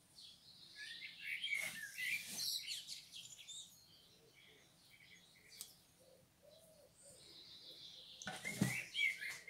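Small birds chirping in quick, high twittering notes, in a burst in the first few seconds and again near the end, with a quieter gap between.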